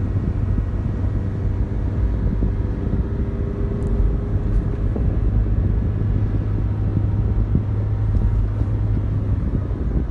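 A motor vehicle's engine running steadily under a dense low rumble, its hum dropping away near the end.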